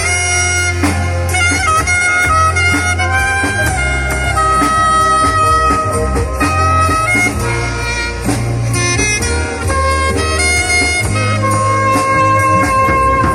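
A band playing: a sustained melody line over a steady, heavy bass.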